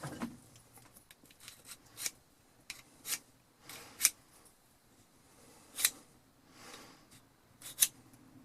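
Diamond sharpening rod drawn across the cutting edge of a vintage auger bit, honing it: a series of short, high scrapes about a second apart, with fainter rubbing strokes between them.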